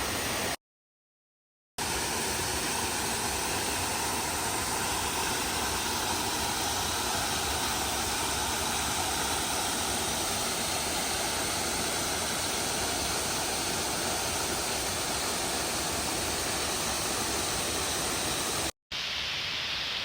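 Goit Stock waterfall on Harden Beck pouring, a steady, really loud rush of falling water. It cuts out to dead silence for about a second just after the start and for an instant near the end, where the recording is edited.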